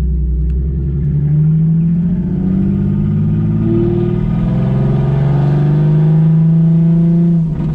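Supercharged 3.6 L V6 of a 2016 Chevrolet Camaro, heard through its 3-inch MBRP cat-back exhaust with Carven mufflers, running under acceleration. Its pitch climbs and settles a few times, as with gear changes, then holds fairly steady near the end.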